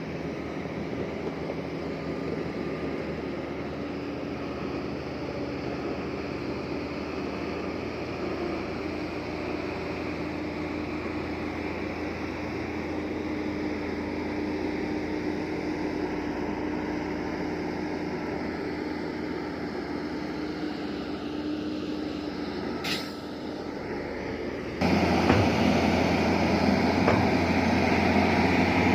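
Heavy earthmoving machinery's diesel engine running steadily. A sharp knock comes near the end, and just after it the sound jumps suddenly louder.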